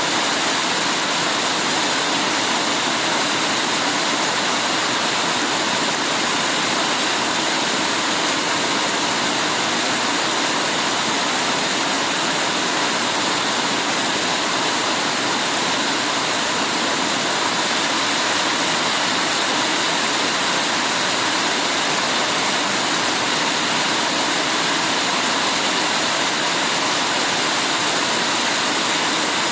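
Heavy rain pouring steadily, a dense, even hiss of water with no let-up.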